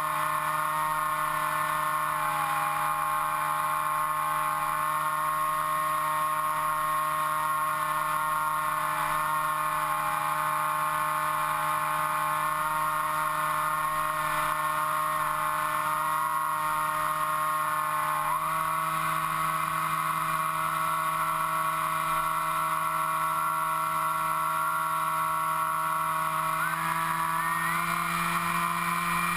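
Motor and propeller of an FPV model aircraft in flight, a steady whining drone whose pitch wavers slightly and climbs near the end as the throttle comes up.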